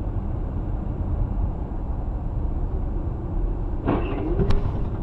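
Steady low rumble of a vehicle driving on the road. About four seconds in there is a brief louder noise with a wavering tone, ending in a sharp click.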